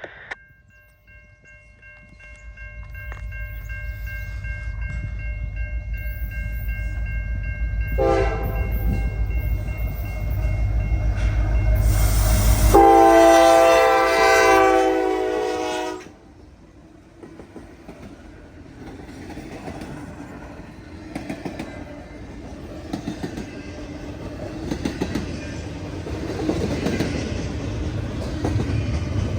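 A diesel freight locomotive approaches with its engine rumble building, and its multi-chime K5LA air horn sounds about eight seconds in. The horn is loudest as the locomotive passes and cuts off sharply. The rest of the train then rolls by: freight cars clattering over the rail joints.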